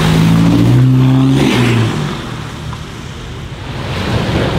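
BMW saloon accelerating hard away from a standstill, its engine loud for the first two seconds and then fading as it drives off. Near the end another sports car's engine comes in and grows louder.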